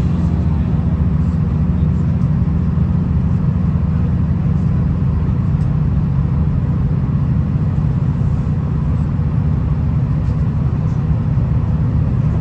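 V/Line VLocity diesel railcar under way, heard on board: a steady low rumble of engine and wheels on the rails, with a few faint ticks.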